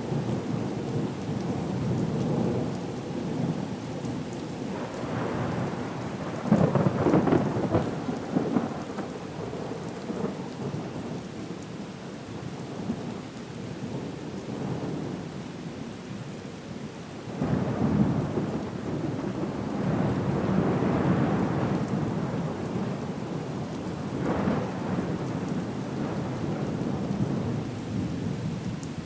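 Storm soundscape of steady rain with rolling thunder. The rumbles swell loudest about six seconds in and again from about 17 to 22 seconds in.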